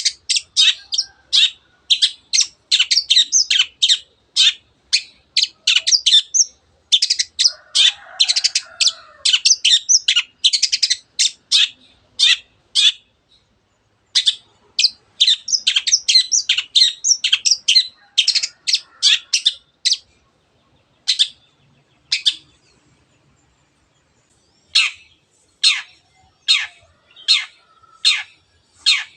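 Long-tailed shrike (cendet) calling in rapid runs of short, sharp, high notes, each falling in pitch, broken by brief pauses. Toward the end the notes come slower and evenly spaced, about one or two a second.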